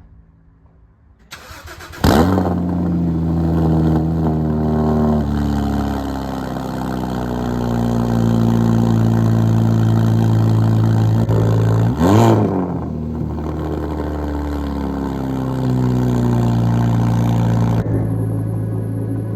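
Porsche Cayman 987.2's 2.9-litre flat-six, straight-piped with Soul headers, cranked and firing up with a sharp flare of revs. It settles into a loud idle that steps down in pitch a few times, with one quick blip of the throttle partway through.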